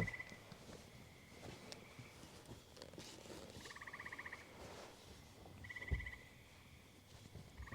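A frog calling faintly in short pulsed trills, each well under a second long, repeated every couple of seconds. There is a dull low thump about six seconds in.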